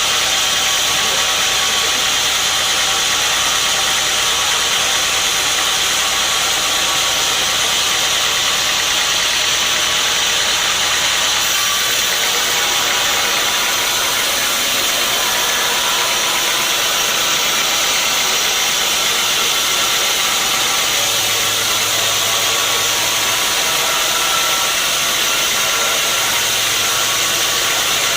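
Sawmill machinery running steadily with a loud, even, hissing mechanical noise. The low hum underneath shifts slightly partway through.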